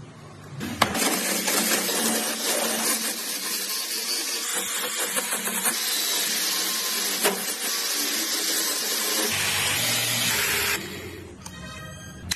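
A power tool working wood, running steadily with an even hiss for about ten seconds and then stopping shortly before the end.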